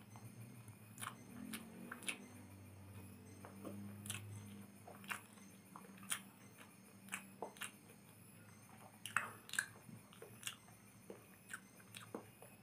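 A person eating instant noodles close to the microphone: chewing with irregular wet smacking clicks, about one or two a second.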